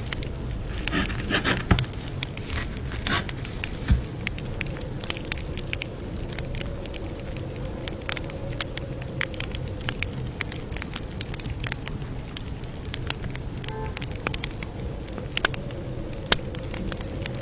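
Campfire crackling: a steady low rumble of burning wood with frequent irregular pops and snaps, a few of them louder.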